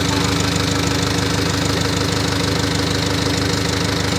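Moshito 25 kVA water-cooled diesel generator running steadily at constant speed, an even engine hum with a fast regular pulse.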